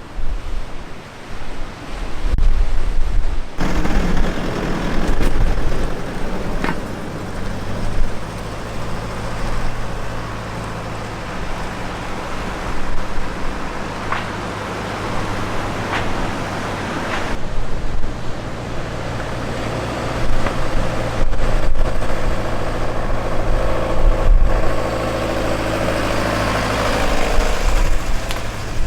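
A steady low engine hum with a rushing noise over it.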